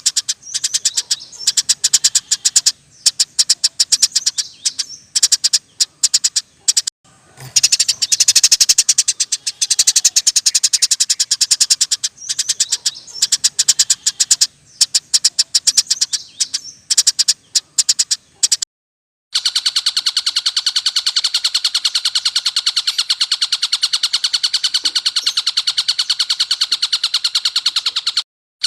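Small songbirds giving very fast rattling trills of many notes a second, the long, harsh 'shot' trills used as a model song for training caged songbirds. For the first two-thirds they come in bursts. After a brief silence, one unbroken fast trill runs on.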